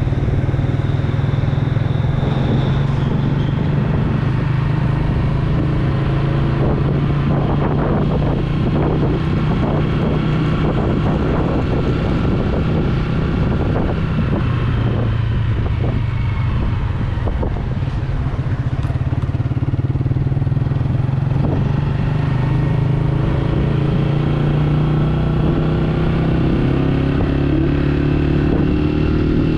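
Yamaha YBR 125G's single-cylinder four-stroke engine running steadily while the motorcycle is ridden, its pitch holding mostly even with only small rises and dips.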